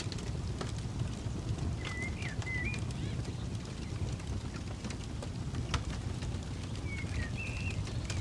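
Campfire crackling with scattered sharp pops over a low steady rumble. A bird calls twice in short chirping phrases, about two seconds in and again near the end.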